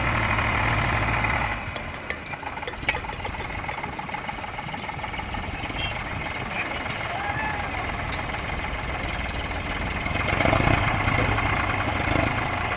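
A vehicle engine running, loud and steady at first. It drops away about a second and a half in, with a few sharp clicks soon after, and swells again near the end.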